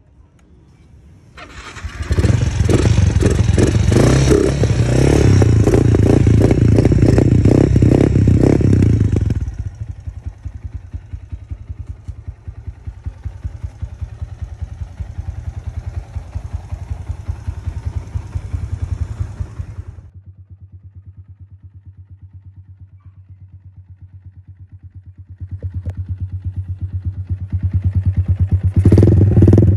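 Yamaha Exciter motorcycle's single-cylinder four-stroke engine, loud. It comes in about a second and a half in and is revved hard for several seconds, then runs lower and falls to a steady idle about two-thirds of the way through. It grows loud again near the end.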